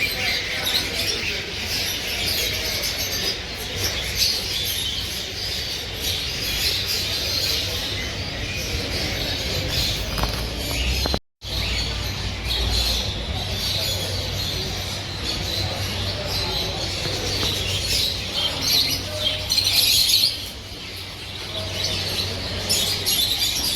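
Dense chorus of many caged small birds chirping and twittering at once over a low rumble, broken by a brief dropout about eleven seconds in.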